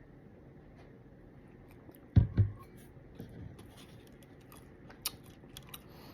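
A person eating cake: two low thuds about two seconds in, then soft chewing noises with a few sharp light clicks.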